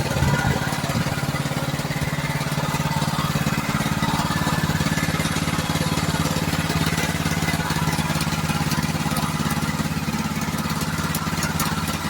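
maXpeedingrods 212cc single-cylinder four-stroke OHV gas engine running steadily, with a few sharper knocks in the first second. The owner says it isn't running right.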